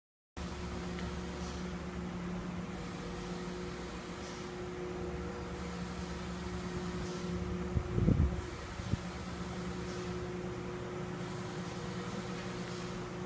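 2011 Detroit Diesel DD15 inline-six diesel engine idling steadily with an even hum. About eight seconds in there is a brief louder bump.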